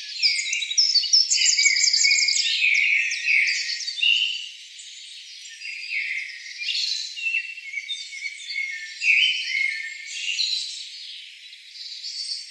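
Several small birds chirping and singing over one another, with quick sweeping notes and a fast trill about a second in. The calls are louder in the first four seconds and thinner after that.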